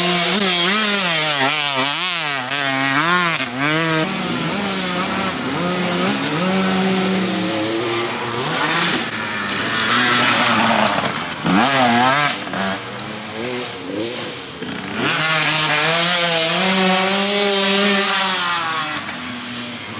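Two-stroke dirt bike engine with a Mikuni TMX38 carburetor being ridden, revving up and down over and over as the throttle is worked and gears change. In places the pitch wavers quickly up and down.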